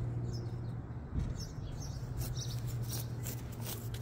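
Small birds chirping a few times over a steady low hum, with a soft thump just after a second in and a run of short high clicks in the second half.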